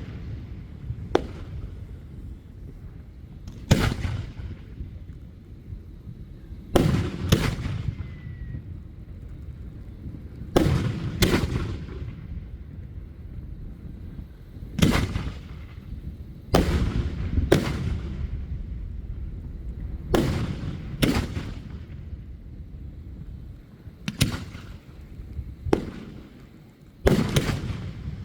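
Fireworks bursting overhead: about fourteen loud booms at irregular intervals, some in quick pairs, with low rumbling echoes between them.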